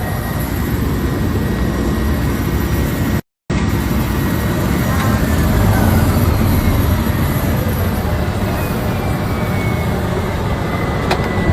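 Small propeller plane's engine running steadily, a continuous low drone, cut off briefly about three seconds in.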